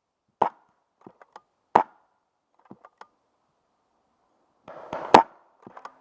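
Paintball gunfire: three loud, sharp shots, the first two a little over a second apart and the third about five seconds in, with quieter clicks and taps between them.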